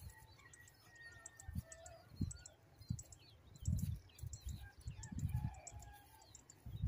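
Small birds chirping over and over across an open field, with a few low thuds near the microphone in between.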